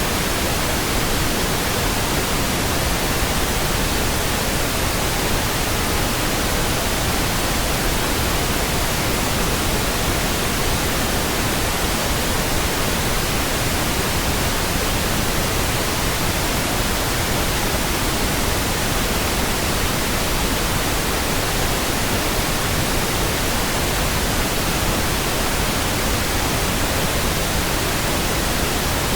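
Steady pink noise: an even, smooth hiss across all pitches, unchanging throughout.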